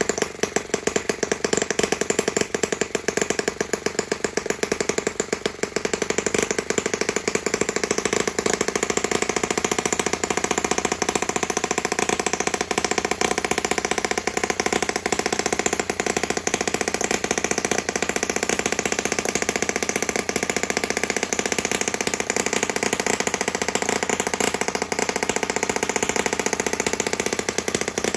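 Small model internal-combustion engine running steadily, firing in a rapid, even beat.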